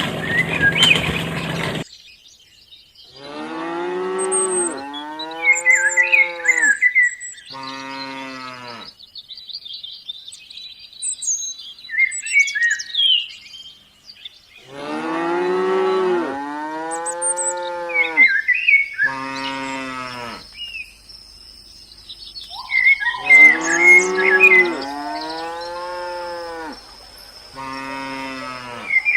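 Cows mooing: a long moo followed by a shorter one, the same pair heard three times, with birds chirping in between. A mechanical rattling noise cuts off about two seconds in.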